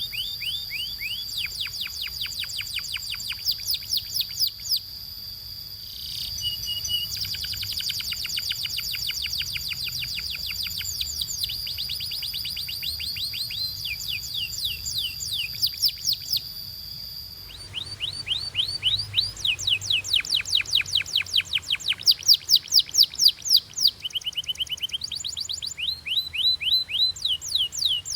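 Canary singing: fast trills of short, quickly repeated notes that switch to a new trill pattern every few seconds. A steady high whistle-like tone sounds beneath the trills until about two-thirds of the way through, then stops.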